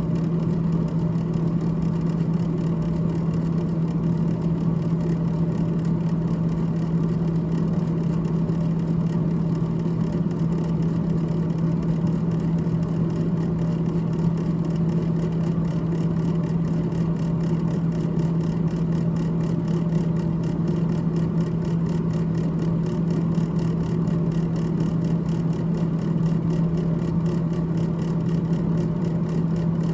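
Freezer fan of a GE GTH18XCTZRBB refrigerator running, a steady low hum that does not change.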